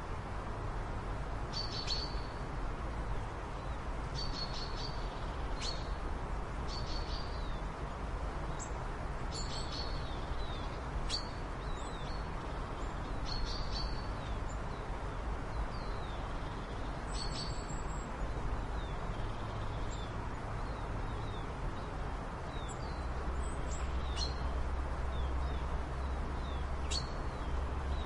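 Birds chirping, short high calls every second or two, over a steady background hiss and a low rumble that grows louder near the end.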